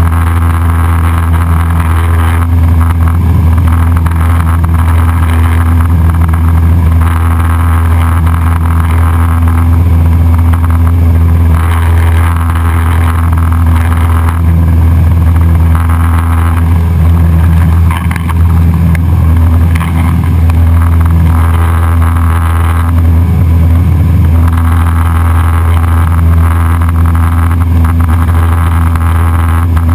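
Cessna 172SP Skyhawk's four-cylinder Lycoming engine and propeller running with a loud, steady drone in flight.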